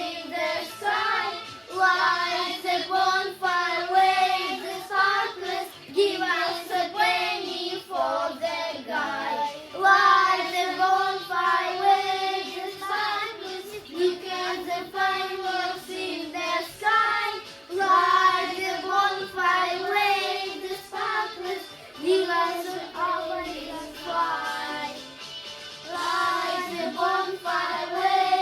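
Children singing a song, one sung phrase after another with short breaths between.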